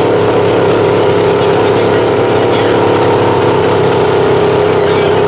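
Truck engine running loudly at a steady pitch.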